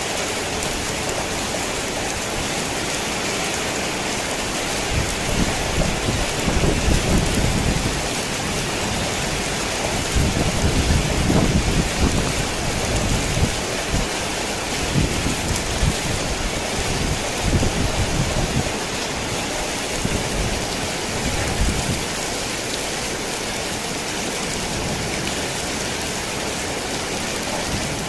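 Torrential rain falling on a worn tin roof, a steady dense hiss. Thunder rumbles from about five seconds in, loudest near the middle, and dies away several seconds before the end.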